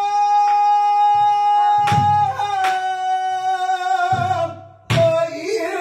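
A pansori singer holding one long sung note, steady and then dipping slightly in pitch about two seconds in, with a few drum strikes sounding behind it.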